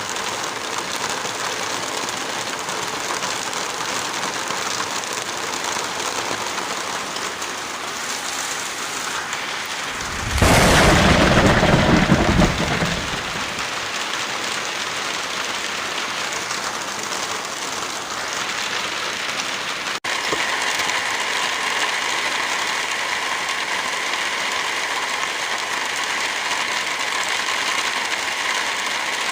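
Heavy rain falling steadily, with a loud thunderclap about ten seconds in that rumbles for two to three seconds. About two-thirds of the way through the rain changes abruptly to a brighter, steadier hiss.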